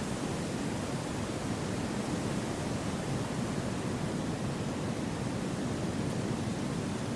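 Gentle wind through a forest: a steady, even rush with no gusts, calls or other events.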